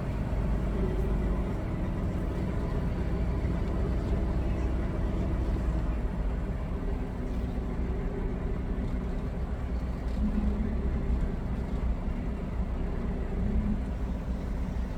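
Semi truck's diesel engine running steadily at low speed, a constant low hum heard from inside the cab.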